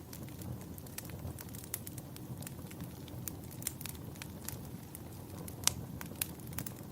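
Campfire burning, with irregular sharp crackles and pops over a low steady rumble of the flames; the loudest pop comes near the end.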